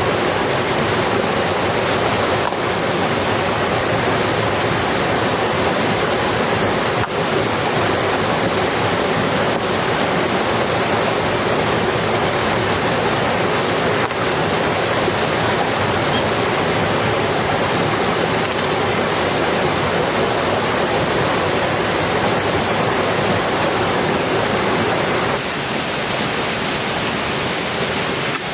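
Heavy rain falling steadily, a dense, even hiss. It becomes slightly quieter and changes tone about 25 seconds in.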